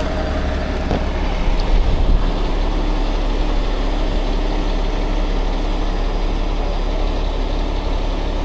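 Heavy diesel engine of a rotator tow truck idling with a steady low rumble while its crane holds a suspended load, slightly louder for a moment about two seconds in.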